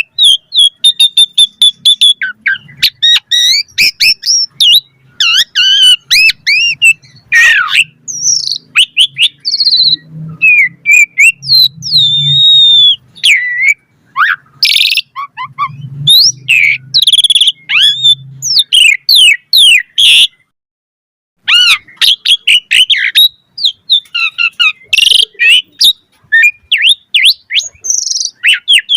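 Asian pied starling singing a fast, varied song of whistles, gliding notes, chirps and chatter, full of mimicked phrases. The song breaks off for about a second and a half about two-thirds of the way through, then resumes.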